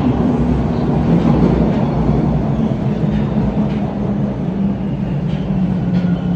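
A TTC Line 2 subway train running through the platform area at Bay station. It makes a loud, steady noise with a low droning tone that sags slightly and then rises again.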